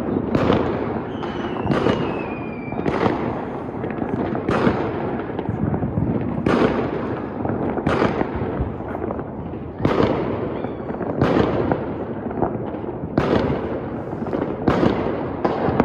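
New Year fireworks display: aerial shells going off every second or two over continuous crackling.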